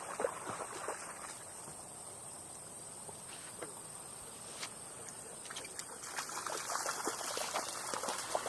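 Faint trickling water, with a run of small splashes and clicks in the last couple of seconds.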